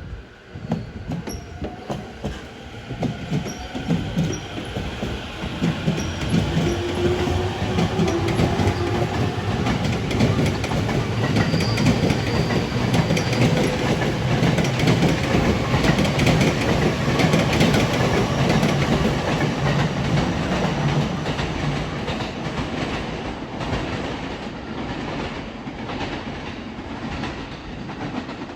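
A Sobu Line commuter train passing, its wheels clacking over the rail joints: a few separate clacks at first, then a dense, steady clickety-clack as the cars go by, fading near the end.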